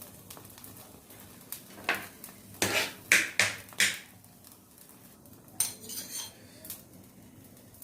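Metal utensils and dishes clinking and clanking in the kitchen, with a cluster of sharp knocks and clatters between about two and four seconds in, then a short rattling scrape near the six-second mark.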